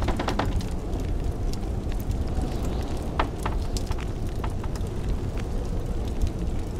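Wood fire crackling in a fireplace, with scattered sharp pops, over the steady low rumble of blizzard wind.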